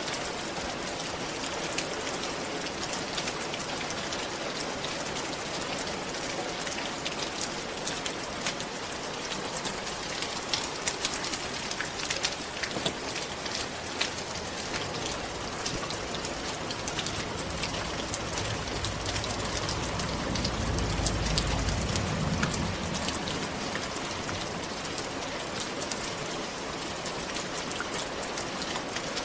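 Steady rain falling on a roof, with a dense hiss and many separate drops tapping. A low rumble swells and fades about twenty seconds in.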